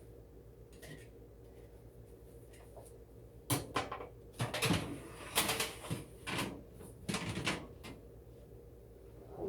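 Oven door and baking sheet handled as a tray of cookies goes into the oven: a run of knocks and clatters that starts about three and a half seconds in and lasts about four seconds.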